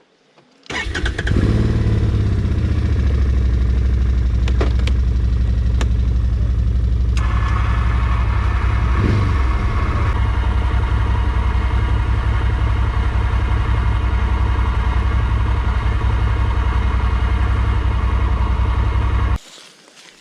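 An off-road vehicle's engine starts about a second in, with the gearbox in neutral, and runs steadily, then is switched off suddenly near the end.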